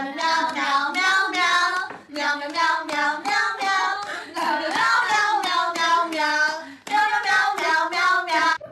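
A high, wavering singing voice holding long drawn-out notes in three phrases, breaking about two seconds in and again near the end.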